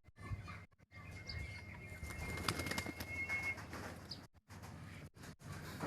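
Pigeon wings flapping in a flurry, loudest about two to three seconds in, with a thin steady high tone running under it for a couple of seconds. The sound cuts out briefly several times.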